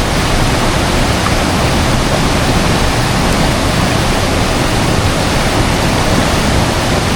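Steady rush of flowing river water, a loud even noise with no breaks.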